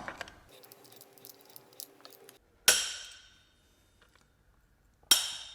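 Two sharp metallic clinks about two and a half seconds apart, each ringing out for a second or so like a struck bell: a steel picking tool working a snap ring out of a ZF 6HP26 transmission clutch drum, metal striking the ringing drum.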